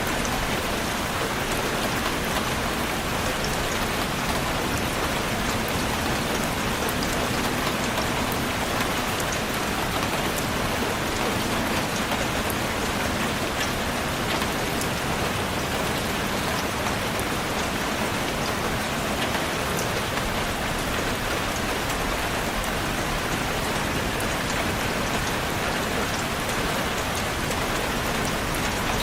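Steady rain falling and pattering on a surface, a dense even hiss with fine individual drop ticks and no breaks.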